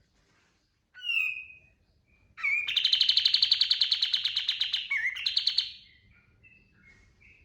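Kapas tembak songbird singing: a short gliding call, then a loud, very fast rattling trill of about three seconds with a brief break near the end, the bird's prized 'tembakan' burst.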